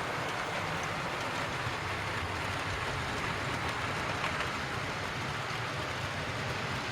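Model railway train running along the layout's track: a steady rumbling running noise of wheels on rails.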